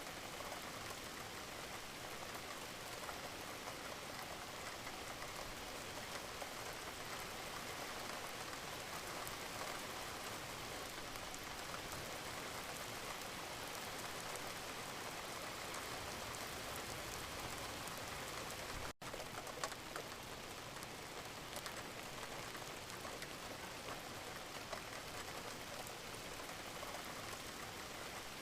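Steady gentle rain: an even, dense patter of raindrops. The sound cuts out for an instant about two-thirds of the way through, then resumes with a small click.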